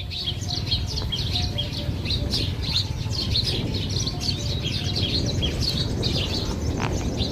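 Many small birds chirping busily, short calls overlapping throughout, over a steady low rumble.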